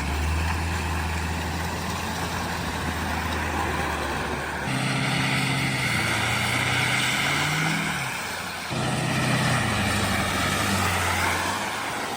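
Car engine running steadily. Its note changes about halfway through and wavers up and down near the two-thirds mark.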